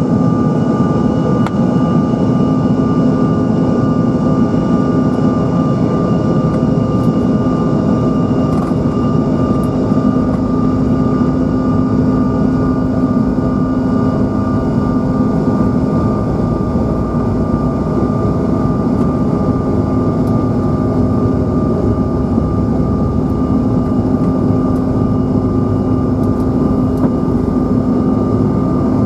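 Steady cabin drone of a Bombardier CRJ-900's rear-mounted GE CF34 turbofan engines, a loud even roar with several constant whines that hold one pitch.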